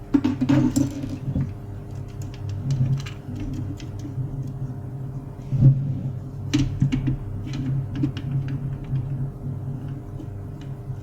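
Irregular small clicks and knocks from an HP LaserJet printer's parts over a steady low hum, with louder knocks about half a second in and around five and a half to six and a half seconds in.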